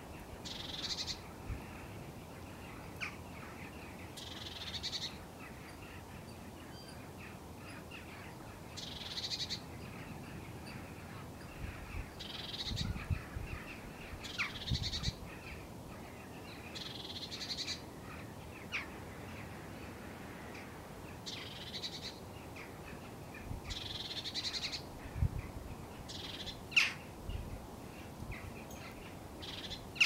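Small birds giving short, high calls every three to four seconds over a steady hiss of wind through dry cattails, with a few brief low gusts of wind.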